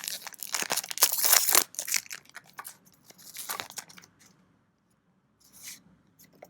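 Foil wrapper of a trading-card booster pack crinkling and tearing as it is opened, loudest in the first two seconds, with another burst about three and a half seconds in before it goes quiet.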